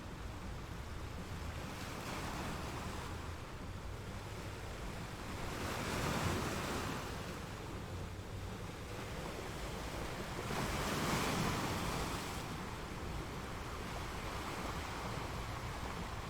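Ocean surf: a steady wash of waves, with two louder waves breaking about six and eleven seconds in.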